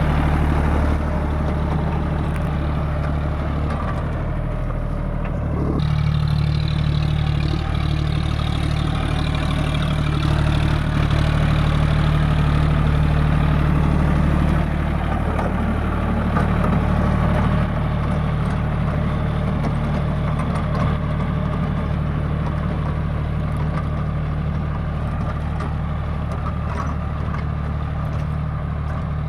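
John Deere 5050D tractor's three-cylinder diesel engine running steadily, its note changing briefly around five seconds in.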